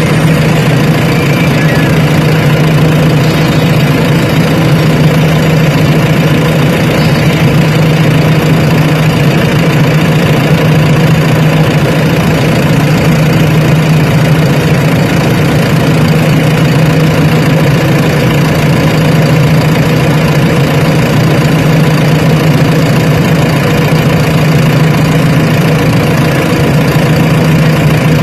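Heavy diesel engine of earth-moving machinery running loud and steady at a constant speed, with no revving.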